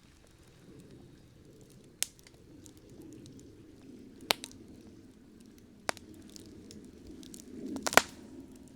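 Campfire burning: a low, steady rush of flames with single sharp wood pops about two, four and six seconds in, and a loudest burst of crackles near the end.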